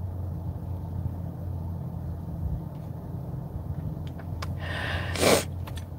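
Steady low hum of a car's idling engine heard inside the cabin, with one short breath near the end.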